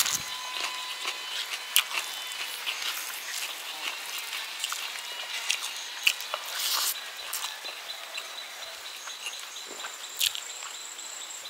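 Mouth sounds of someone eating rice and curry by hand: scattered wet clicks and smacks of chewing, over a steady high outdoor hiss with a few faint thin high tones.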